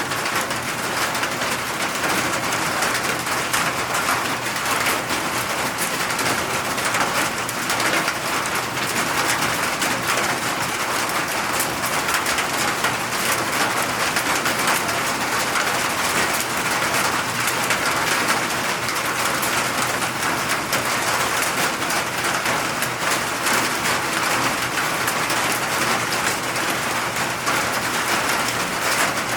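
Steady, heavy rainfall: a dense, even hiss of raindrops hitting surfaces, with no letup.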